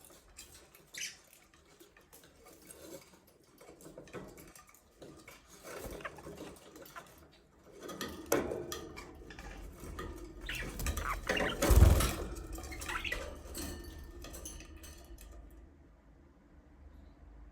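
Light clicking, scraping and clattering of small hard objects, like dishes and feeders being knocked, with a louder knock about twelve seconds in.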